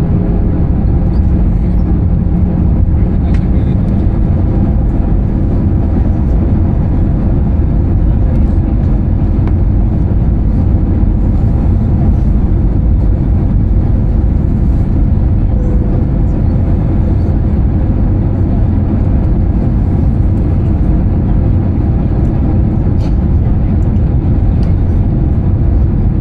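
Steady cabin noise inside an Airbus A320-214 airliner: an even, low rush of engine and airflow noise with no breaks or changes.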